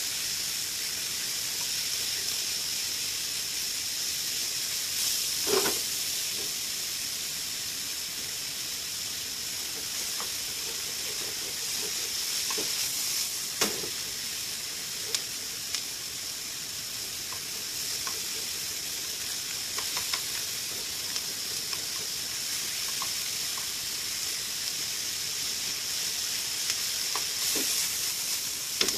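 Pork belly and vegetables sizzling steadily in a hot frying pan, with a few knocks and scrapes as a spatula stirs them against the pan.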